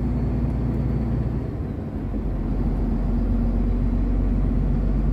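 Inside a truck cab on the move: the truck's engine drones steadily along with road noise, easing off slightly about two seconds in.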